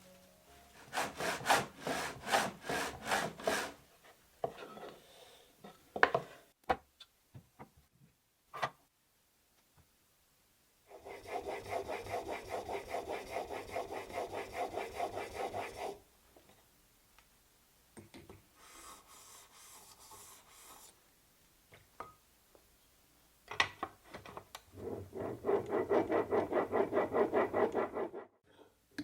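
A hand tool worked back and forth on wood in spells of quick, even rhythmic strokes, with a few separate clicks and knocks between the spells.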